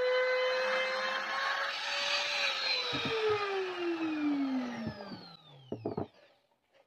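Woodworking power tool's motor running with a steady whine, then switched off and spinning down, its pitch falling over about four seconds until it stops, with a few light knocks near the end.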